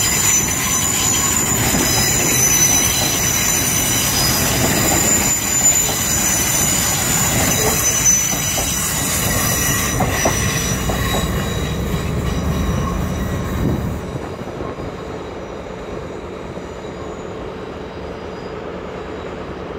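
Great Western Railway Class 800 train pulling out past the platform: a steady rumble with high-pitched wheel squeal and a few wheel clacks. The squeal fades about halfway through, and about two-thirds in the sound drops suddenly to a quieter rumble as the train draws away.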